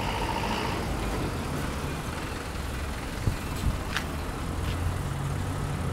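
Steady low engine hum of a vehicle idling, with a few light clicks around the middle.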